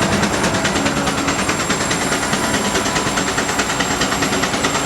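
An engine running steadily at an even speed, its exhaust beating in a fast, regular rhythm.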